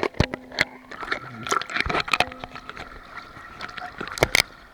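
Seawater sloshing close around a handheld camera in the surf, broken by frequent sharp knocks and clicks from handling, with two loud knocks near the end.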